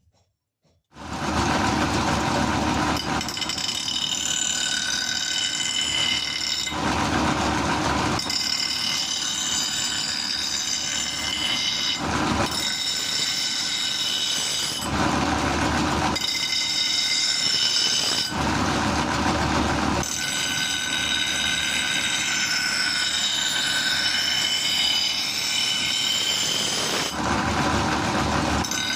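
Power grinder grinding leaf-spring steel: a steady harsh grinding noise with wavering high-pitched squeals. It starts abruptly about a second in and comes through louder every couple of seconds as the steel is pressed on.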